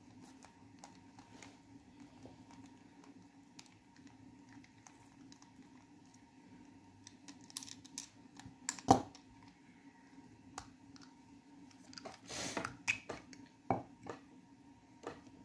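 Scattered small plastic clicks and knocks from a replacement electrical plug being handled and opened for wiring to a vacuum cleaner cord, with one sharper click about nine seconds in and a brief scraping rustle a few seconds before the end. A faint steady hum runs underneath.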